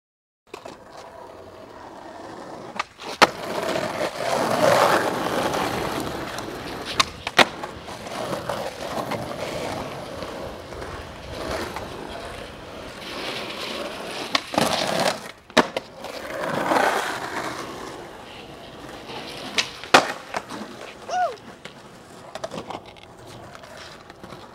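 Skateboard wheels rolling over pavement, with about five sharp clacks of the board's tail popping and landing spread through the run.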